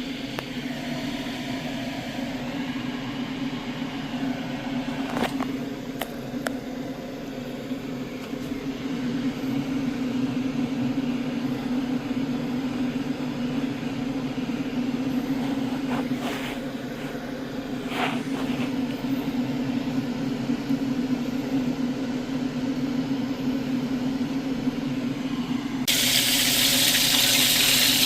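A steady low hum with a hiss over it and a few sharp clicks. About two seconds before the end a kitchen tap is turned on and water runs loudly.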